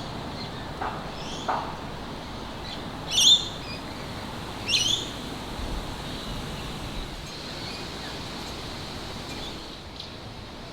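Two short, sharp bird calls about a second and a half apart, a few seconds in, after two fainter, lower calls, over a steady outdoor background hiss.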